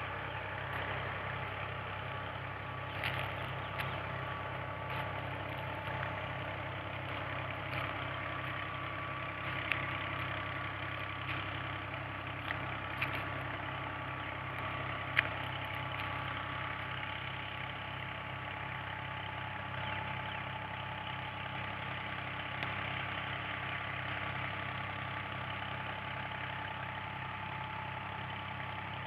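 Tractor engine running steadily at constant speed, powering a tubewell water pump. A few sharp clicks sound over it, the loudest about halfway through.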